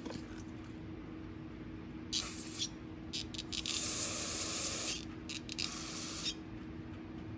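Aerosol carburetor cleaner spraying in hissing spurts: a short hiss about two seconds in, a few quick spurts, one long blast of about a second and a half, then a few more short spurts. It is being used to blast out a badly clogged carburetor jet nut.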